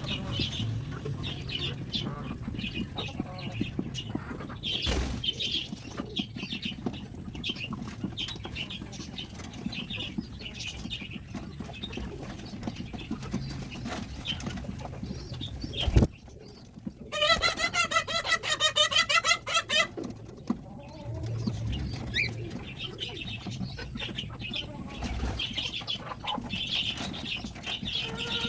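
Domestic pigeons and chickens calling and clucking, with wing flaps, over a steady low rumble. A sharp knock comes about sixteen seconds in, followed by a loud, rapidly pulsing bird call lasting about three seconds.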